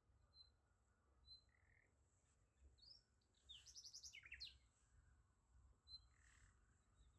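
Faint bird chirps over near silence: a few short, high single chirps, with a quick run of twittering notes about three and a half seconds in.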